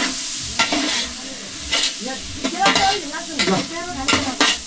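Food frying in hot oil in a cooking pot, sizzling, while a spoon scrapes and stirs it in repeated short strokes.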